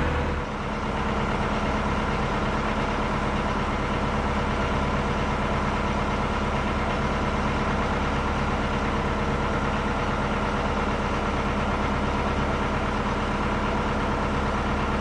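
Narrowboat engine chugging steadily at cruising speed, an even low beat.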